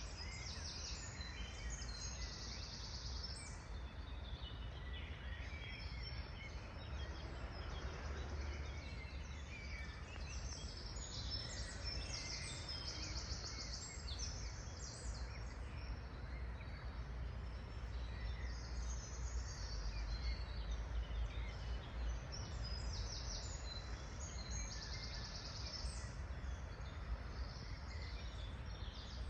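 Songbirds singing, with a high trilling phrase of about a second recurring every few seconds among scattered chirps, over a steady low rumble.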